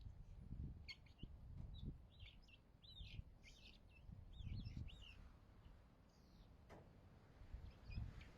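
Faint bird chirps: a quick run of short, curving notes from about one to five seconds in, with a couple more near the end, over a faint low rumble.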